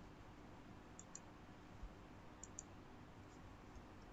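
Near silence with a few faint clicks, in two quick pairs, typical of a computer mouse being clicked.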